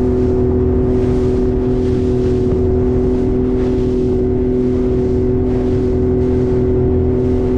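Speedboat engine running at a steady pitch, with a rushing noise that swells and fades in quick surges, about twice a second.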